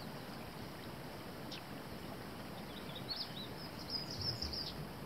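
Several short, high bird chirps, a single one early and a cluster of quick chirps about three to five seconds in, over a steady faint outdoor hiss.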